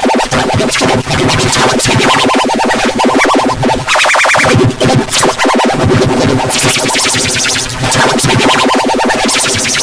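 Loud, distorted, heavily processed electronic audio that sounds like synthesizer music, with pitched tones chopped into a fast stutter throughout.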